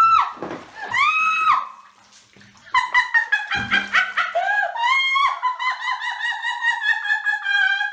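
A dog whining and howling in high-pitched cries. Two short cries rise, hold and fall, then after a brief pause one long wavering cry slowly drifts down in pitch.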